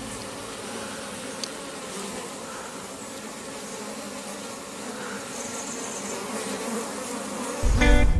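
Honey bees buzzing in a steady hum. Guitar music comes in near the end.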